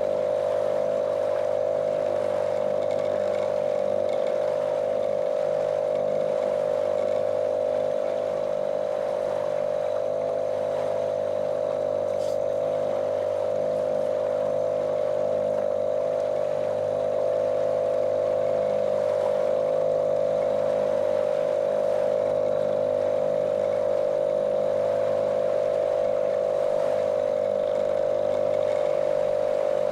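A small motorboat's motor running at a steady cruising speed: one even, monotonous drone that holds the same pitch throughout.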